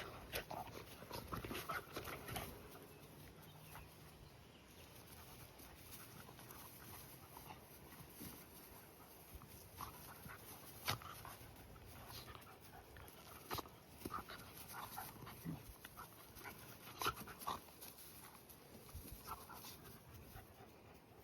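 A pet dog moving about with scattered soft taps and clicks, faint throughout.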